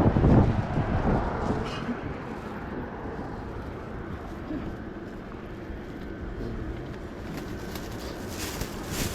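Wind buffeting the microphone, strongest in the first second, over a steady outdoor background rumble; a short rustling hiss near the end.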